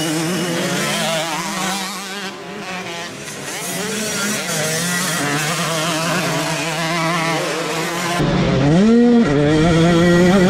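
Motocross bike engines running hard, the pitch wavering up and down with throttle changes.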